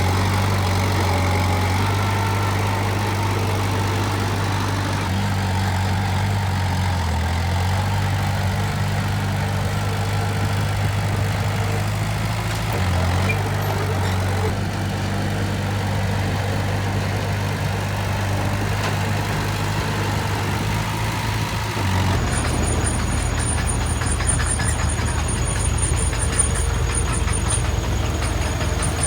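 Heavy diesel construction machine engine running steadily at an even pitch, with brief dips twice. About 22 seconds in the sound changes abruptly to a rougher, clattering engine noise with a faint high whine.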